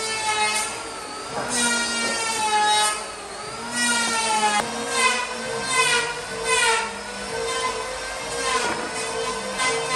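Power tool working wood: a high whine that bends up and down in pitch in repeated passes, over a steady motor hum.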